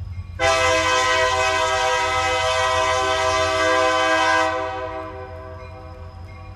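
Diesel freight locomotive's air horn sounding one long blast of about four seconds, several steady notes together as a chord, then fading. A low rumble from the train runs underneath.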